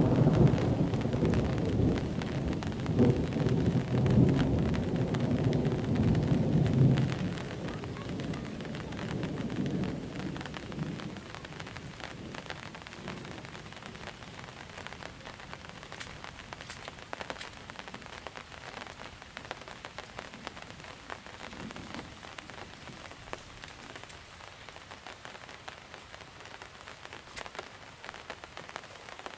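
Heavy monsoon rain falling steadily, with a low thunder rumble that dies away over the first ten seconds or so. After that only the rain is left, with individual drops striking close by.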